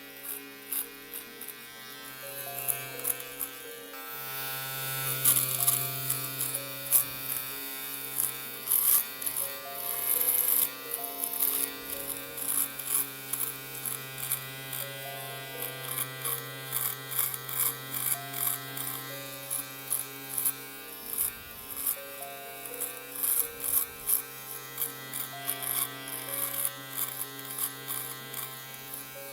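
Electric shaver buzzing steadily as it shaves, with frequent sharp clicks. Plucked-string music plays underneath.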